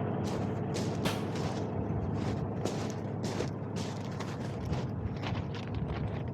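Semi truck's tires rolling slowly over gravel, with irregular crunching and popping of stones over the steady low hum of the diesel engine.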